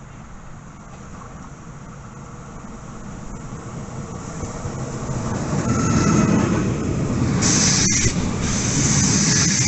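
An Alstom Régiolis multiple-unit train arrives and runs in along the platform. Its rumble grows steadily louder from about four seconds in as it draws alongside, with faint whines and a short burst of hiss near the end.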